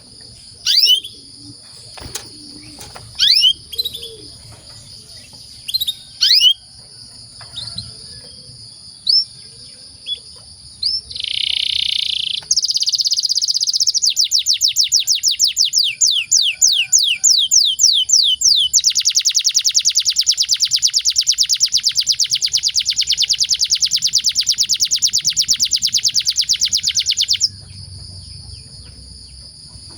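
Domestic canary singing: scattered short falling chirps and a buzzy note, then a run of quick repeated notes leading into a long, very fast rolling trill of about eight seconds that stops abruptly near the end.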